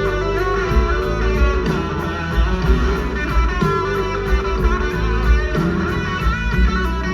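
Live band music: electric guitar over bass and drums, with a steady beat and cymbal ticks.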